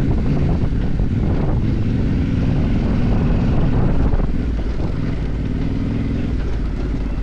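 Motorcycle engine running steadily under way off-road, easing off slightly about four seconds in.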